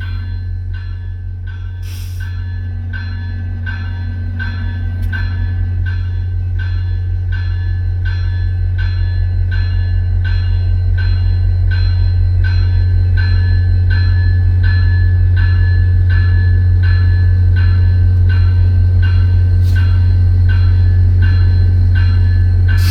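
Diesel passenger locomotive's bell ringing steadily, about one and a half strokes a second, over the loud low steady running of its diesel engine, growing slowly louder.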